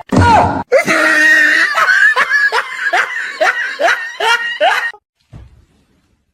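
A person laughing hard in a string of loud, falling cries, about two to three a second, that stop about five seconds in.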